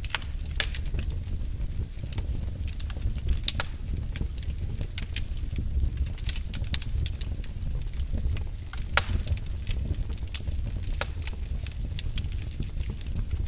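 Fire burning in a fireplace: a steady low rumble of flame with sharp crackles and pops scattered irregularly through it.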